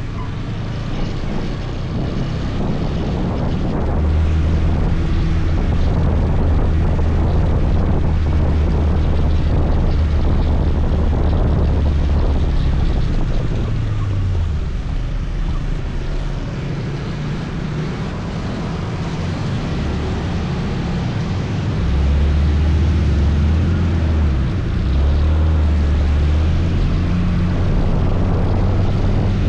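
Motor scooter engine running steadily while riding, with wind and road noise on the microphone. The engine note falls about halfway through, as when easing off, and dips briefly again near the end.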